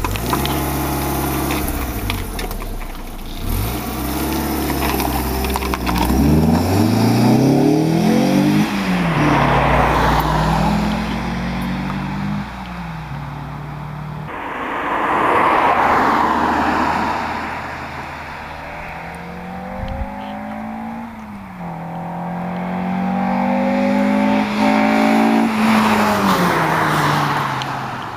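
Renault Clio 182's 2.0-litre four-cylinder engine, breathing through a Simota carbon airbox, accelerating hard through the gears. The engine note climbs and drops back at each gear change, and climbs and shifts again in a second run about halfway through.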